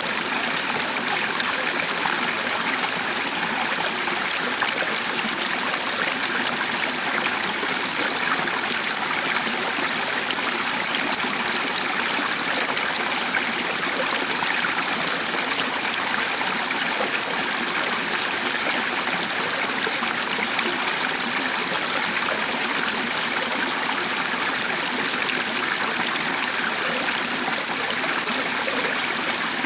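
Stream water running and trickling steadily, an even rushing sound without breaks.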